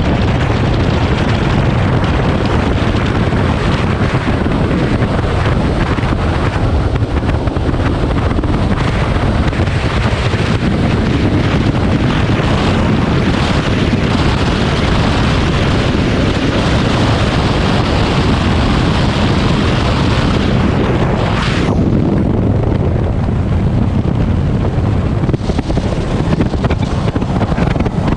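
Heavy wind buffeting the microphone aboard a fast-moving powerboat, over the steady drone of the engines and rushing water.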